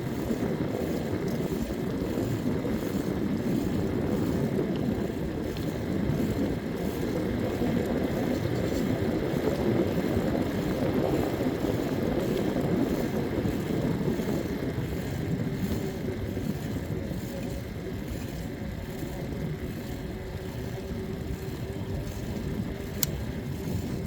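Steady rumble of wind and road noise from a bicycle ride, with a faint steady hum coming in about halfway through and a single sharp click near the end.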